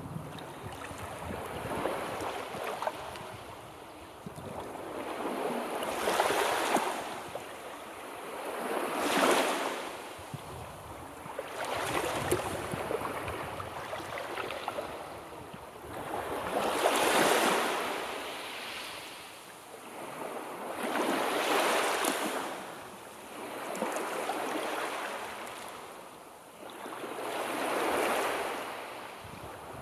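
Sea waves washing in, each swell of noise rising and then fading away, roughly every four to five seconds.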